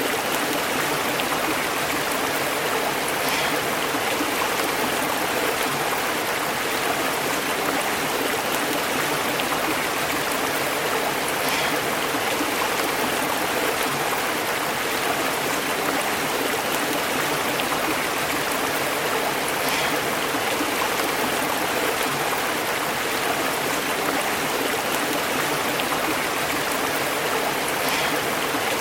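Small stream burbling and bubbling over rocks, a steady rushing of water.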